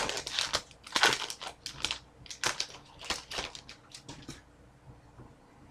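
Foil wrapper of a hockey card pack being torn open and crinkled: a run of crackling rustles that dies away about four seconds in.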